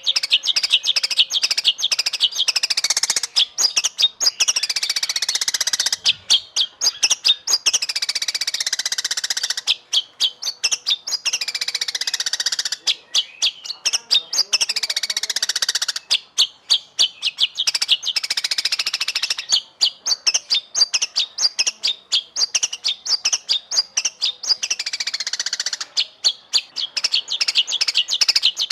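White-rumped shama (murai batu) singing continuously: fast runs of rapidly repeated sharp notes and downward-sliding whistled phrases, broken by short pauses every few seconds.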